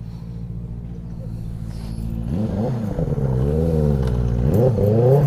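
Benelli 600i's inline-four motorcycle engine, running steadily at first, then revved up and down several times from about two seconds in, its pitch rising and falling and growing louder.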